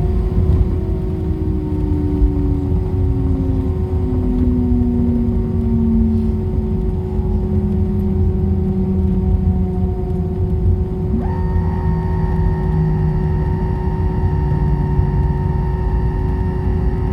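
Airliner jet engine noise heard inside the cabin while taxiing: a steady low rumble with a whine that falls slowly in pitch over about ten seconds, as an engine winds down. About eleven seconds in, a new higher whine cuts in suddenly and holds steady.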